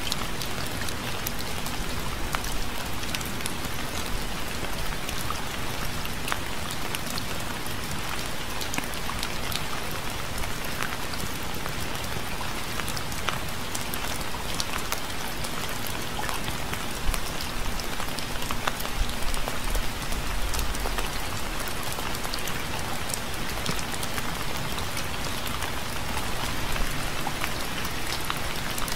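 Steady, gentle rain falling on a surface, a constant hiss with many separate drops ticking through it.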